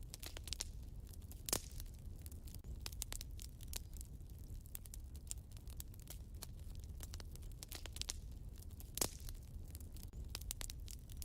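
Wood fire in a fireplace crackling with frequent small snaps over a low steady rumble. Two louder pops come through, one about a second and a half in and another some seven seconds later.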